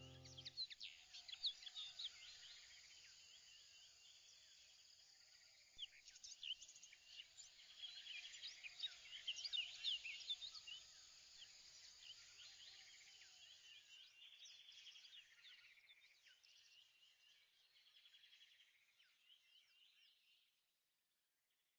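Faint birdsong: many small birds chirping and twittering in quick, overlapping high notes, busiest in the middle, fading out near the end.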